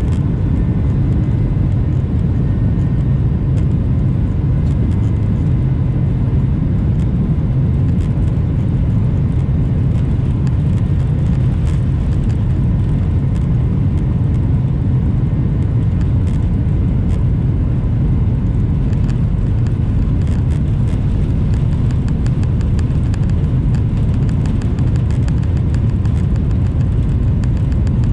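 Boeing 737 heard from inside the cabin during takeoff: a loud, steady, deep rumble from the jet engines at takeoff power. Faint light rattles become more frequent in the later part.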